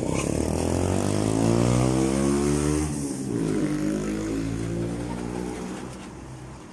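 A motor vehicle engine passing close by. Its pitch climbs for about three seconds, changes abruptly, then runs on and fades away near the end.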